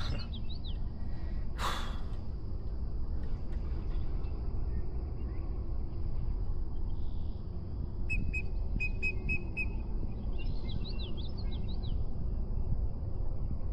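Birds calling in short chirps that fall in pitch, with a quick run of short notes about eight seconds in, over a steady low rumble; one sharp knock about two seconds in.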